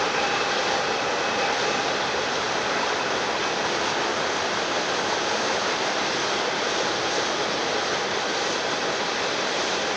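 Freight train cars rolling past on the rails, a steady loud roar of wheels on track. A faint steady whine fades out about a second in.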